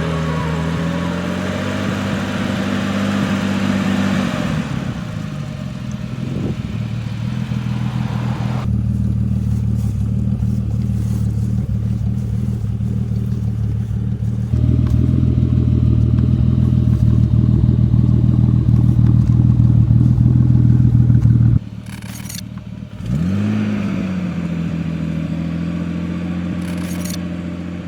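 Turbocharged BMW E28's engine running and revving: its pitch rises and falls, then holds steady for long stretches and grows louder about halfway through. The sound drops off suddenly near three-quarters through and comes back with a quick rev that settles to a steady note.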